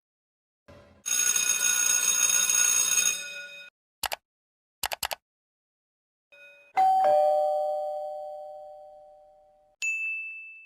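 A string of short, separate sound effects: a noisy, ringing sound for a couple of seconds, a few quick clicks, then a two-note ding-dong doorbell chime, high note then low, fading over about three seconds. A short high ding comes near the end.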